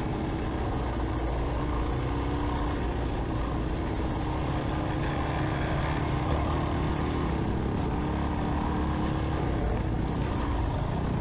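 Suzuki DR-Z400S single-cylinder four-stroke dirt bike engine running at a steady pace while riding, with wind noise.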